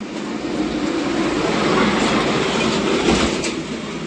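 Loud, steady rumbling and rattling noise with no clear tone.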